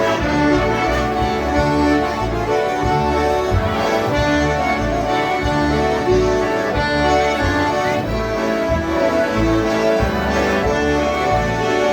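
A group of concertinas playing a polka together: full held chords and melody over a steady pulsing bass beat.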